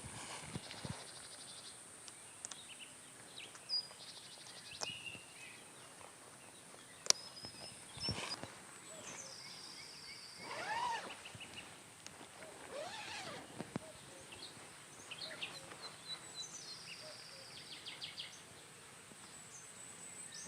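Outdoor natural ambience: a steady high insect drone with birds chirping and trilling on and off, and a few sharp clicks, the loudest about seven seconds in.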